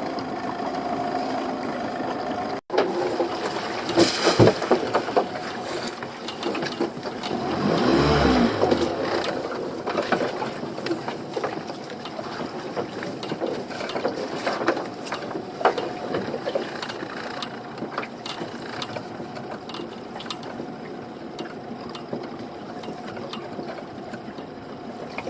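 Small fishing boat's outboard engine running steadily, with irregular knocks and clatter of gear on deck. The sound drops out for an instant a few seconds in, and there is a louder swell around eight seconds.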